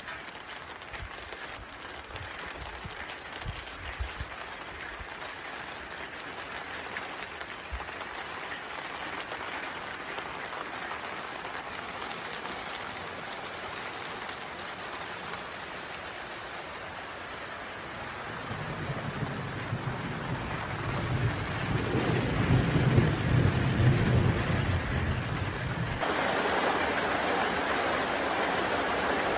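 Steady rain pouring down, with a long low rumble of thunder from about two-thirds of the way in that swells and then fades. Near the end the rain suddenly becomes louder.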